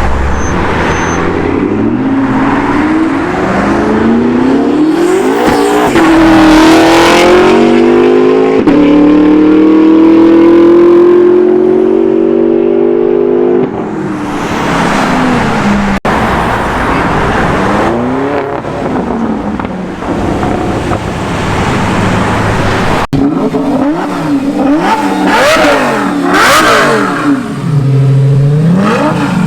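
High-performance car engines accelerating hard, the pitch climbing through gear shifts in one long pull that ends about halfway. This is followed by further engine passes and short up-and-down revs near the end.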